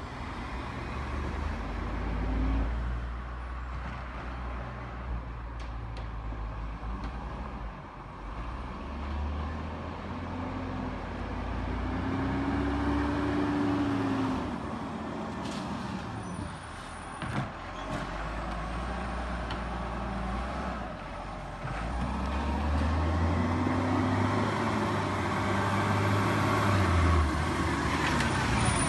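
Garbage truck engine running, revving up and back down twice, with a few knocks and clatters in between.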